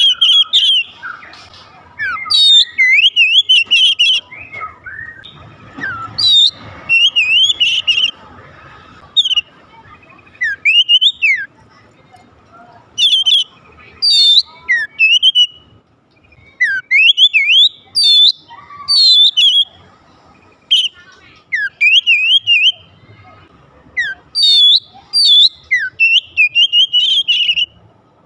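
Oriental magpie-robin (kacer) singing: loud, varied whistled phrases with quick up-and-down sweeps, delivered in bursts of a second or two with short pauses between them. This is a song recording meant to stir other kacer into full song.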